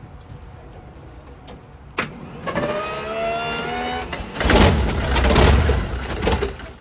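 A car engine starting. A click is followed by a rising whine for under two seconds, then the engine catches and runs loud and rough.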